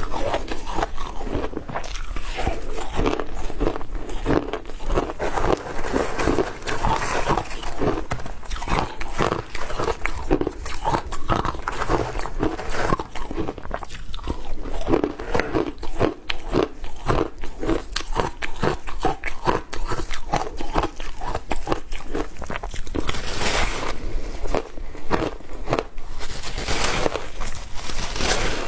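Close-miked crunching and chewing of frozen ice dusted with matcha powder: rapid, dense bites and chews throughout, with a couple of brighter, hissier crunches near the end.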